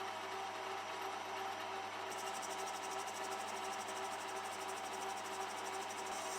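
A small power tool running steadily with a regular pulsing beat. A fast, fine high-pitched rattle joins about two seconds in.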